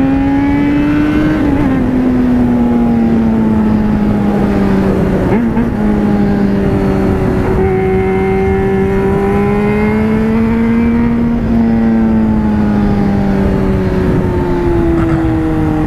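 Yamaha FZ6N's 600 cc inline-four engine pulling at steady mid revs under way, its pitch easing up and down slowly, over a rush of wind noise on the microphone. Near the end the revs drop and then rise sharply.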